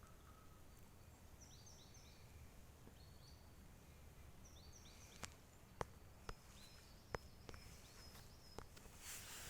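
Faint calls of small birds: short, high, downward-sliding notes given in quick little groups several times. A few sharp clicks come in the second half.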